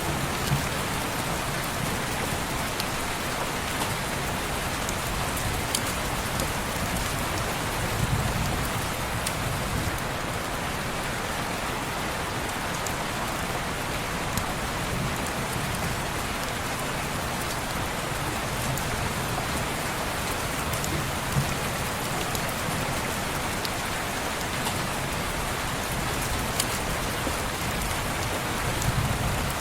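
Steady rain falling against a window, with scattered sharp ticks and a few soft low rumbles.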